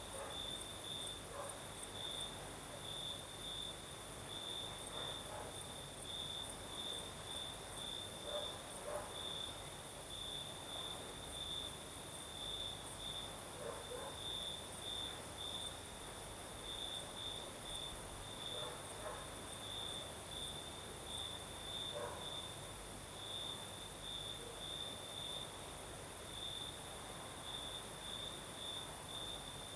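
Crickets singing at night: one cricket's chirps repeat steadily, about one to two a second, over a continuous high-pitched insect trill.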